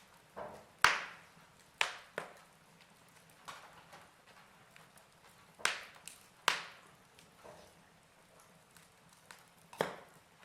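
Fire crackling: sharp, irregular pops and snaps over a faint steady hiss, the loudest pop about a second in.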